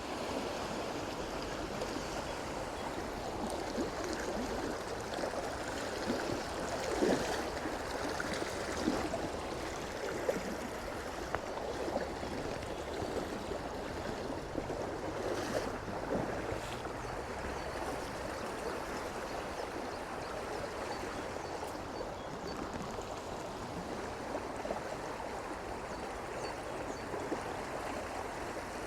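Small stream running over stones: a steady rushing burble, with a few brief louder gurgles in the first third.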